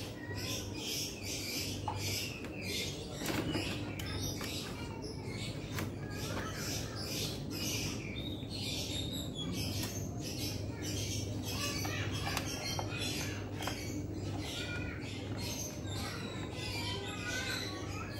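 Birds chirping over and over in quick, high-pitched calls, over a steady low hum.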